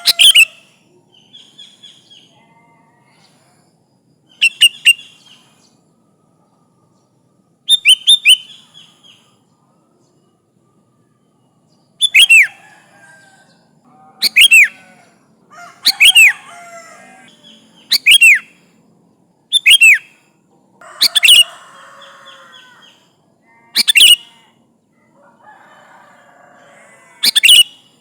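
Sooty-headed bulbul calling repeatedly in short, loud phrases of quick falling whistled notes. The phrases are spaced out at first, then come about every two seconds, with fainter chattering between them.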